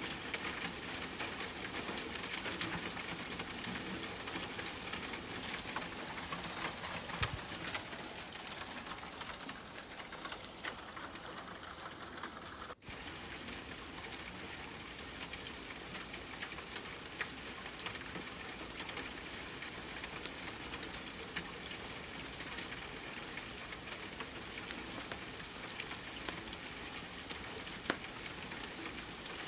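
Rain-and-fireplace ambience: steady rain with fine crackling ticks throughout, and a brief drop-out about thirteen seconds in.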